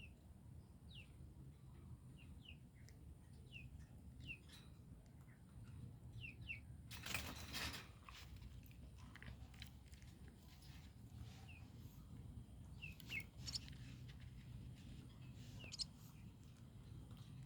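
Baby birds giving faint, short, high peeps that fall in pitch, repeated at irregular intervals, with a brief rustle about seven seconds in.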